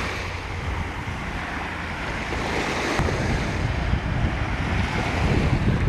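Ocean surf washing on the shore, swelling and ebbing, with wind buffeting the microphone in a steady low rumble.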